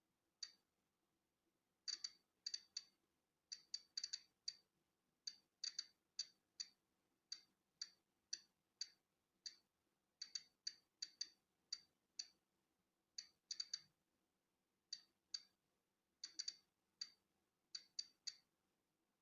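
Polon EKO-C digital Geiger counter clicking at irregular intervals, about two short high clicks a second, some coming in quick pairs or clusters. Each click is one count of natural background radiation.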